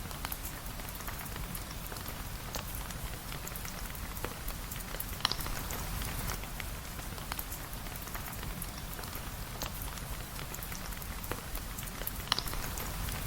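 Steady rain falling, with many scattered sharp drop ticks and a low rumble underneath. Two louder ticks come about five and twelve seconds in.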